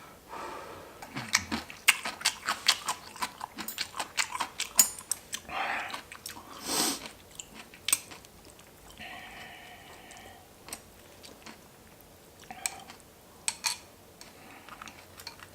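Close-miked eating: wet chewing with many sharp mouth smacks and clicks, densest in the first half, and two longer breathy sounds around the middle. After that the chewing thins out to a few scattered smacks.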